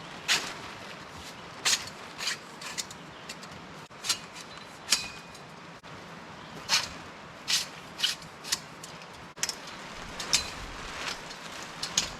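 Dry twigs and small sticks cracking and snapping: a string of irregular sharp cracks, some in quick pairs, while kindling is gathered.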